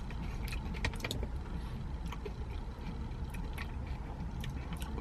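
Car engine idling, a steady low rumble heard from inside the cabin, with a few faint scattered clicks and taps.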